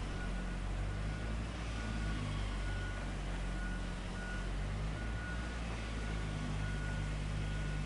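Heavy machinery engine running steadily at a low rumble while a motion alarm gives a regular series of short, high beeps.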